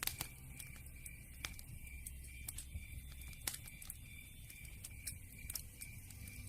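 Campfire crackling: scattered sharp pops and snaps over a low, steady rumble, with a louder pop just after the start and another about three and a half seconds in.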